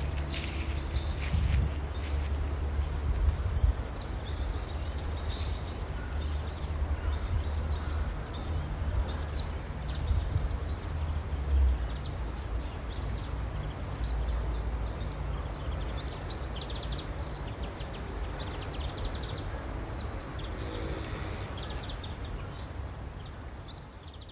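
Wild songbirds chirping and calling in short, scattered notes, over a steady low rumble.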